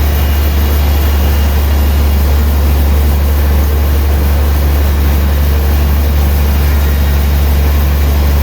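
Sawmill engine running steadily with a loud, low drone.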